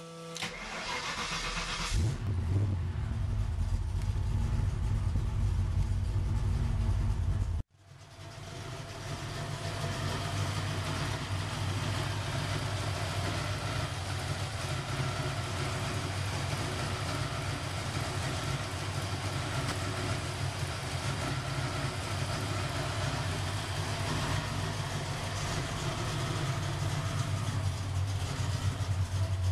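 Freshly rebuilt 358 cubic inch Windsor small-block V8 with a B&M Roots supercharger, solid roller cam and Topline heads, being started. It catches about two seconds in and runs loudly. The sound breaks off abruptly about eight seconds in, then returns and settles into steady running.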